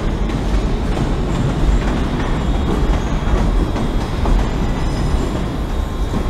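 Scotrail Class 380 Desiro electric train in motion: a steady rumble of wheels on the rails.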